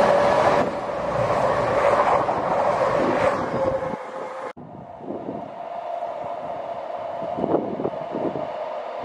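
A CrossCountry Voyager diesel multiple unit running through at speed, loud, its underfloor diesel engines and wheels heard with a steady whine. About four and a half seconds in the sound cuts to a quieter scene: wind gusting on the microphone over a faint steady hum.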